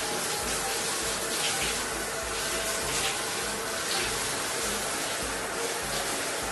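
A steady rushing noise that holds at an even level throughout, like water running from a tap.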